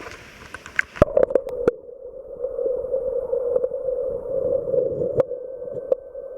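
Camera knocks and splashes as it goes into the stream, then stream water heard underwater: a steady, muffled gurgling rush with the higher sounds cut off, and a couple of faint clicks.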